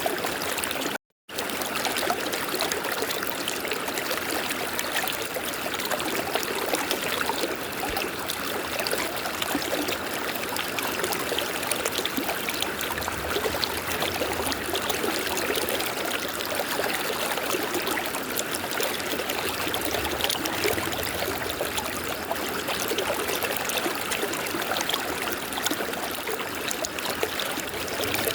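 River water flowing steadily, with a short break of silence about a second in.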